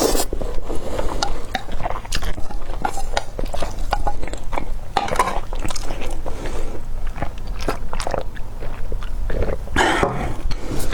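Close-miked mouth sounds of eating thick, chewy spicy noodles: a steady run of wet chewing clicks and bites, with a few longer noisy bursts, about five seconds in and again near the end.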